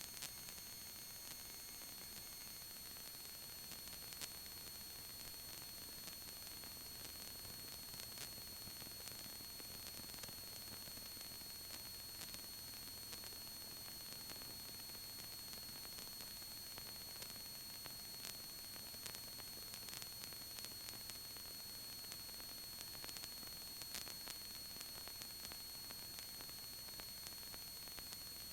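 Faint steady electronic hiss with a few thin, high, steady whines and scattered soft clicks: the noise floor of the headset intercom audio feed while no one is transmitting.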